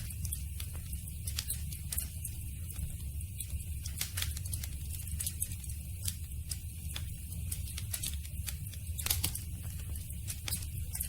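Campfire burning, with frequent irregular sharp crackles and pops of the wood over a steady low rumble of the flames; one of the louder pops comes about nine seconds in.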